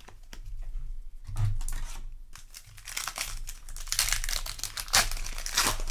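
Foil booster pack wrapper crinkling as it is handled and torn open, a dense crackling that gets louder about halfway through.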